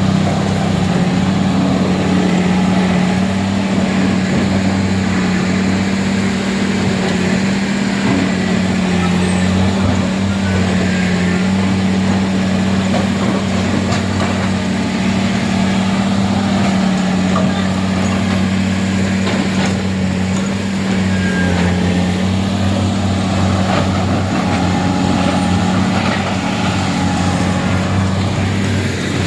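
Heavy diesel engine running steadily at an even speed, a deep constant hum.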